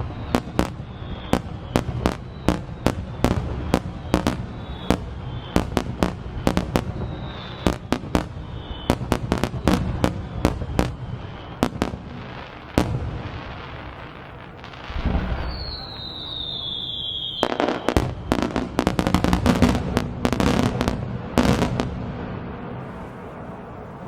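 Aerial fireworks in a rapid barrage of shell bursts, about two to three bangs a second, with short falling whistles among them. After a brief lull a long falling whistle sounds, then a dense volley of bursts that dies away near the end.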